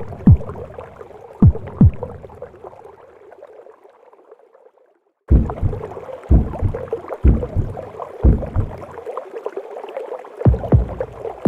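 Womb sound: a heartbeat thumping in low paired beats about once a second under a whooshing, gurgling wash. It fades away a few seconds in, breaks off into silence for about half a second, then starts again.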